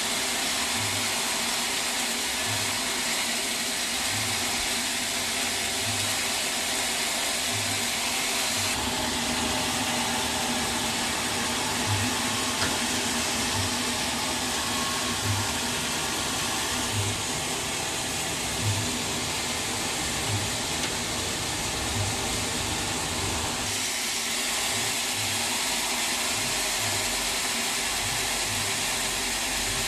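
Sawmill machinery running: a steady rushing noise with a low thud repeating about once a second. The sound changes abruptly about a third of the way in and again later.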